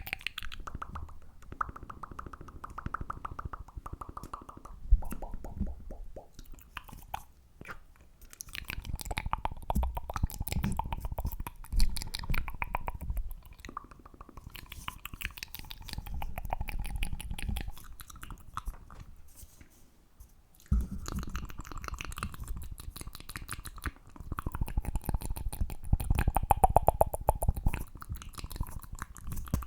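Close-miked ASMR mouth sounds, wet clicks and pops, together with rapid tapping in dense runs of fast clicks, broken by a couple of short pauses.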